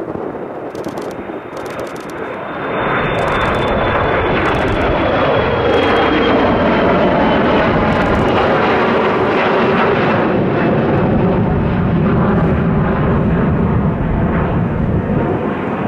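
Embraer E175 regional jet departing, its two GE CF34 turbofans at high power: a loud rumble that swells about two and a half seconds in and holds, with a thin high whine slowly falling in pitch as the jet passes.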